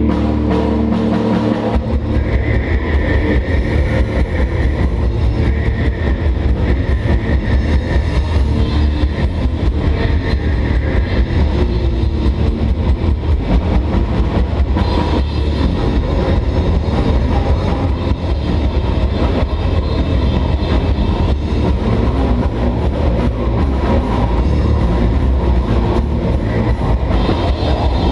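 Live metal/hardcore band playing loud, with heavily distorted guitars. A held chord rings for the first couple of seconds, then the full band comes in with fast, dense drumming that keeps up to the end.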